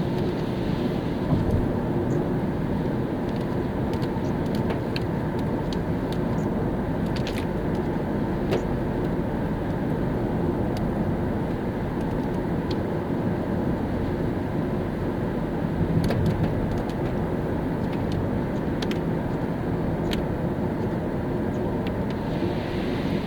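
Car driving on a wet road in the rain: a steady rumble of tyres and road noise, with scattered sharp ticks and a few low thumps, one near the start and another about two-thirds of the way through.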